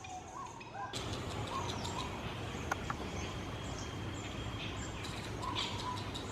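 Seychelles fruit bats calling in the trees with short squeaks and chirps as they squabble. The background hiss gets suddenly louder about a second in.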